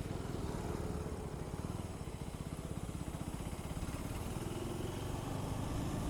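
KTM 390 Adventure's single-cylinder engine running at low revs as the bike rolls slowly through a U-turn, its exhaust pulses coming in an even, rapid beat.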